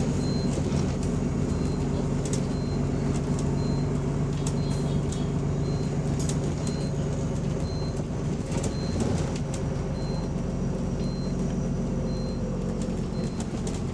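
Diesel engine of a double-decker bus idling steadily. A faint high beep repeats about once a second over it.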